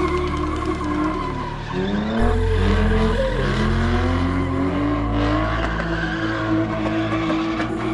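Car engine revving up and down hard while its tyres screech, as a car spins and drifts. The revs climb and fall several times in the middle of the stretch.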